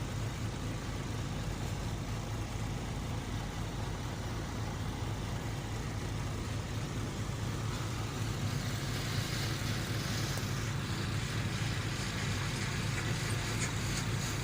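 Heavy engine of road construction machinery running steadily with a low hum, joined by a louder hiss from about nine seconds in.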